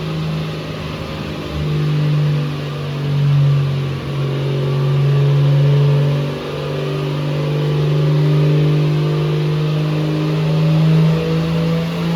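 Toyota 2JZ inline-six in a swapped Corolla wagon, revved and held at fairly steady revs, swelling in loudness several times.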